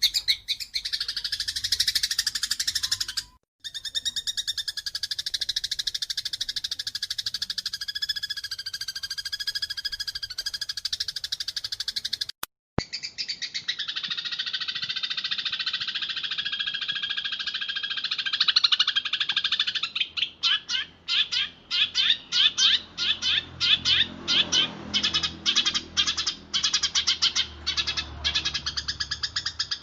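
Eurasian tree sparrows chattering in a dense, rapid stream of chirps: the agitated calls of sparrows fighting. There are two short breaks early on, and from about two-thirds of the way through, the chatter breaks up into separate sharp chirps, several a second.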